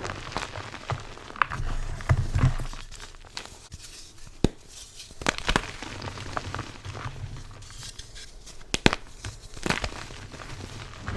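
Gym chalk blocks and slabs being crushed by hand: irregular crunching and crumbling, broken by a few sharp snaps.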